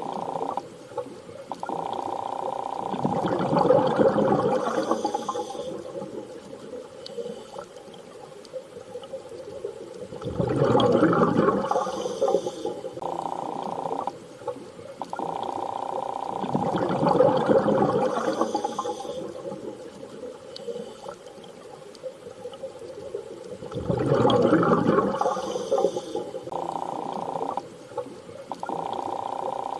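Underwater-style ambience: slow surging water swells about every seven seconds, with a held mid-pitched tone that comes and goes between them in an even, looping pattern.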